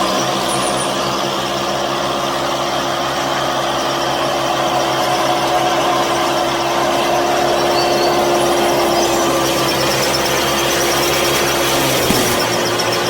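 A motor running steadily at one constant pitch, which shifts slightly lower about twelve seconds in.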